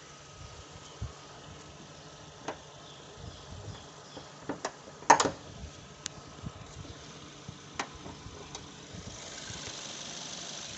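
Maruti Suzuki Ertiga's 1.4-litre VVT petrol engine idling faintly and steadily. It is overlaid by scattered light clicks and knocks, the loudest a sharp double click about five seconds in. A faint hiss rises near the end.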